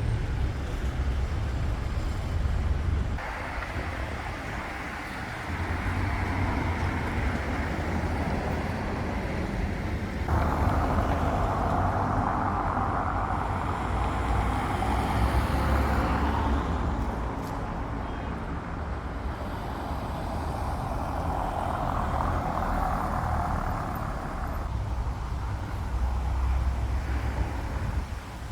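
City street ambience with road traffic running past: a steady rumble of car and truck engines and tyres. The sound shifts abruptly a few times where short recordings are joined together.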